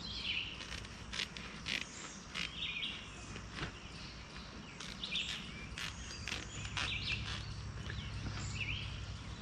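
Songbirds chirping outdoors in short repeated calls, with scattered sharp clicks from handling nearby.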